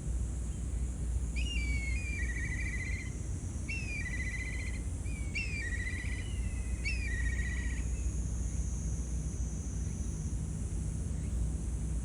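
A songbird singing four short phrases, each a falling whistle that runs into a fast trill, over a steady low background rumble.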